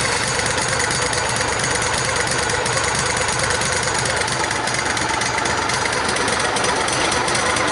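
Engine idling steadily, warming up just after a cold start.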